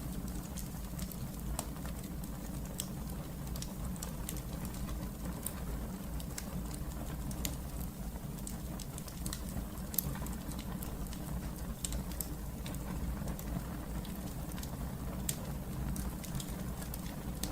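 Wood fire burning in a fireplace: a steady low rumble with frequent small crackles and pops, one sharper pop about ten seconds in.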